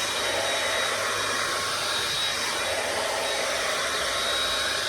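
Bombae Hairess ionic hot air brush dryer blowing on its high setting: a steady rush of air with a thin, high, steady whine and a low hum underneath.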